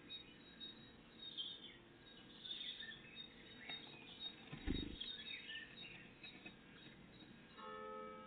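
Small songbirds chirping and singing throughout, with a single dull thump about halfway through. Near the end a church bell starts ringing.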